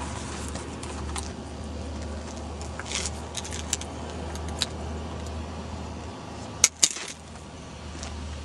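Metal clinks and rattles from a skateboard truck being handled, its kingpin broken, with two sharp clicks close together near seven seconds in. A steady low hum runs underneath.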